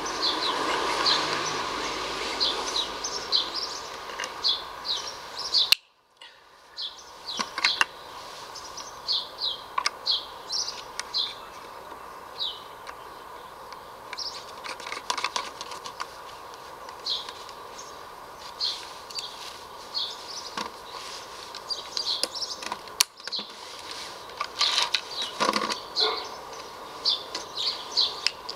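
Small birds chirping outdoors: short, high chirps in quick clusters over a steady background hiss. A few light plastic clicks from parts being handled. Two sharp clicks, about six seconds in and again near the end, each cut the sound to a moment of near silence.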